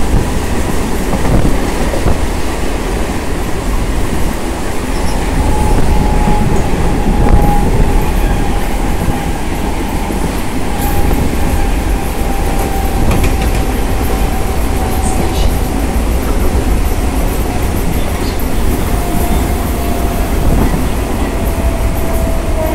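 Mumbai suburban local train running along the track, heard from its open doorway: a loud, steady rumble and rattle of wheels on rails, with a faint high tone that slowly falls in pitch from about six seconds in.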